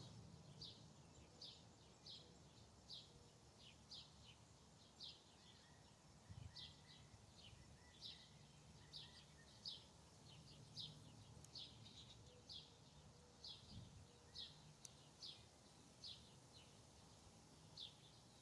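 A bird chirping over and over, faint short high notes about one and a half a second, each dropping slightly in pitch.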